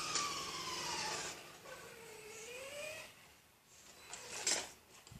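Electric motor whine of 1/10-scale RC race cars, its pitch gliding down as one car slows, then a lower whine rising and falling as a car is driven again. A short sharp noise comes about four and a half seconds in.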